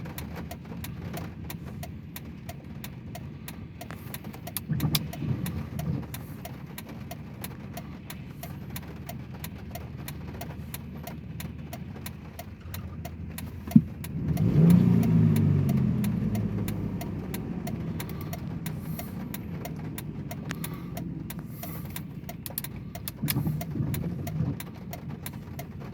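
A vehicle engine running steadily at a low hum. About halfway through there is a sharp click, then a louder swell that slides down in pitch as it fades over a few seconds, with two shorter, weaker swells earlier and near the end.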